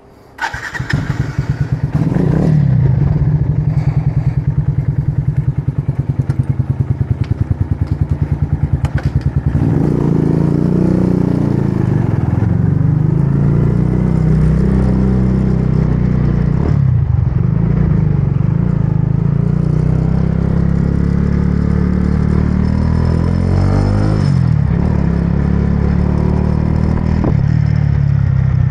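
Motorbike engine coming in suddenly about a second in and ticking over with an even pulsing beat. From about ten seconds in it runs under way, its pitch rising and falling as the bike speeds up and slows.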